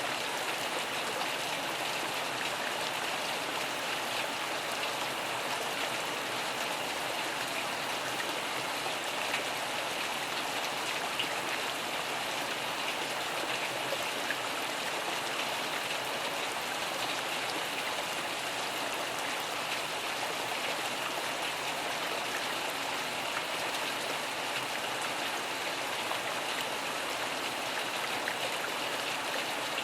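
Steady rainfall: an even hiss of falling rain with a few slightly louder drops.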